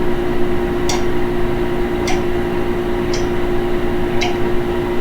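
A steady hum with a light tick about once a second.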